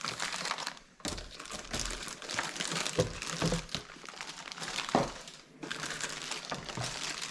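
Plastic bags and packaging of a model engine kit crinkling as the parts are taken out and laid out, with a few sharp clicks from small parts being set down.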